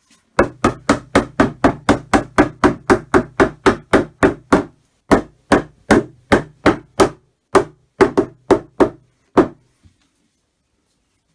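Mallet blows on the wood of a flat-pack cupboard being assembled: about four sharp knocks a second for the first few seconds, then slower, about two a second, stopping a couple of seconds before the end. A low steady hum sounds under the faster run of blows.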